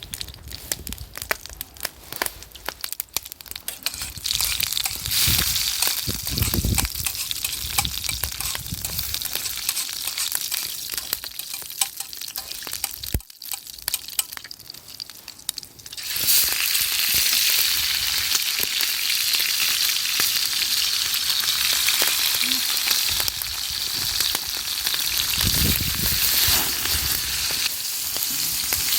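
Food frying in a pan over a campfire. It starts as scattered crackling spatter and, about sixteen seconds in, jumps to a louder, steady sizzle.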